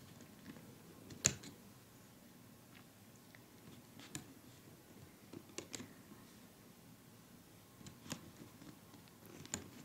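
Faint handling of a plastic rubber-band loom as loom bands are stretched onto its pegs, with five sharp clicks, the loudest about a second in.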